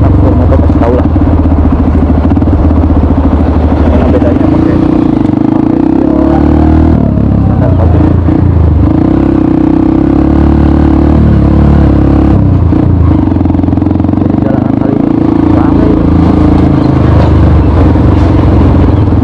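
Honda CRF 150L's single-cylinder engine running through an aftermarket Norifumi RV1 N4 exhaust while riding, a steady loud note that dips twice, about a third and about two thirds of the way through.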